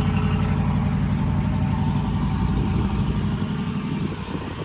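2014 Jeep Grand Cherokee Overland's 5.7-litre Hemi V8 idling steadily through its exhaust, loud, shortly after a cold start. The level eases off slightly near the end.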